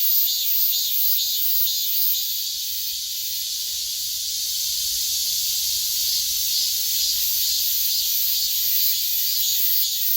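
Cicadas singing: a loud, continuous, shrill buzz with a fast pulsing beat.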